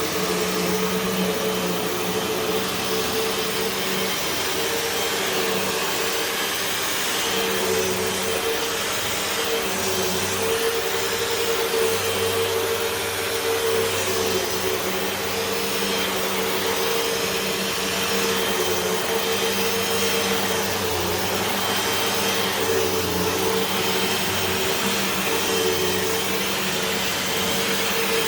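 Hoover WindTunnel 2 Whole House Rewind upright vacuum running steadily as it is pushed over carpet, a constant motor whine over airflow hiss whose pitch dips and recovers slightly with the changing load.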